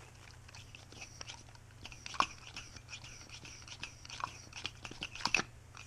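Irregular small clicks and scrapes of airsoft gearbox parts being handled, with the sharpest clicks about two seconds in and twice near the end.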